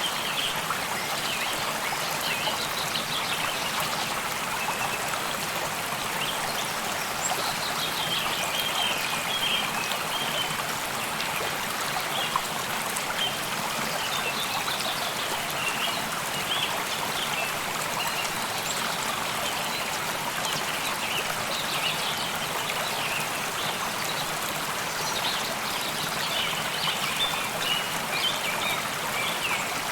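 Steady rush of a flowing stream, with short high chirps scattered through it, thickest about a third of the way in and near the end.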